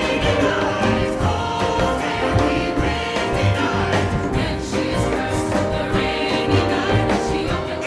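Folk band and choir performing a Celtic-style song: voices holding long notes over the instruments, with a steady beat.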